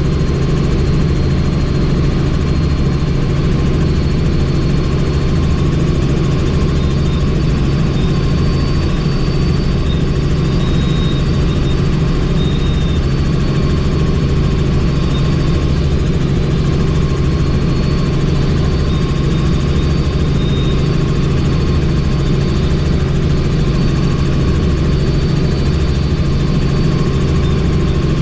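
Helicopter in flight heard from on board: steady turbine and rotor noise with a thin high whine above it.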